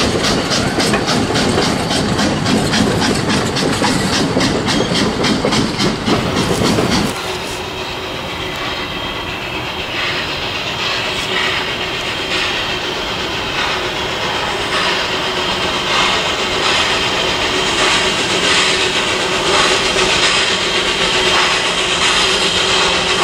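Railway passenger cars rolling past close by, their wheels clicking rapidly and evenly over the rail joints over a heavy rumble. About seven seconds in the sound cuts to a steam locomotive working in the distance, its soft exhaust beats about once a second slowly growing louder as it approaches.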